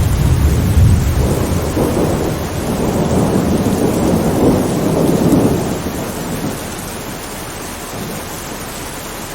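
Thunder rolling during steady rain: a deep rumble at the start turns into a rougher rolling peal over the next few seconds, then fades about six seconds in, leaving the steady hiss of rain.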